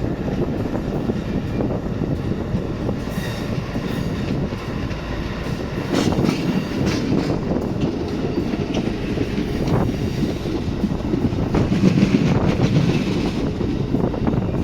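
Panama Canal Railway passenger train running along the track: a steady rumble with a few scattered clacks from the wheels.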